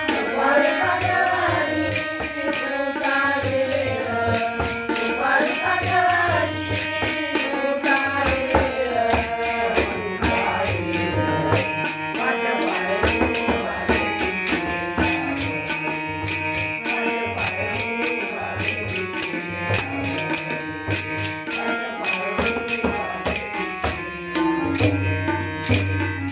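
Marathi devotional abhang singing: a singer's voice over a drum and quickly struck cymbals, with the singing strongest in the first several seconds and the percussion running on after it.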